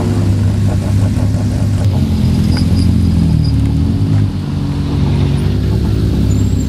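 Rally car engines idling at low revs, with a first-generation Renault Clio rally car rolling slowly past close by. A steady engine drone whose pitch shifts a little a couple of seconds in.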